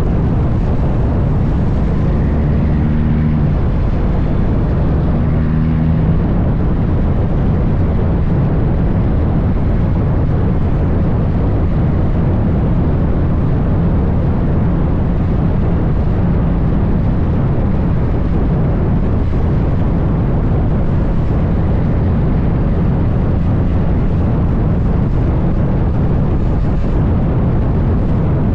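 Heavy diesel semi truck running steadily at road speed, a continuous low rumble.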